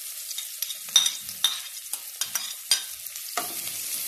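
Chopped garlic and onion sizzling in hot oil in a metal wok, with a steady hiss. A metal spoon scrapes and clinks sharply several times as the onion goes in and is stirred.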